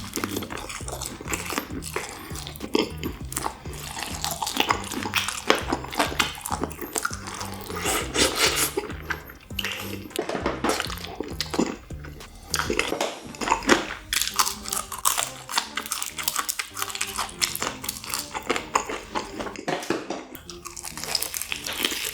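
Close-miked biting and chewing of seasoned Korean fried chicken: irregular crisp bites and wet chewing, with the odd light clink of a dish. Faint background music runs underneath.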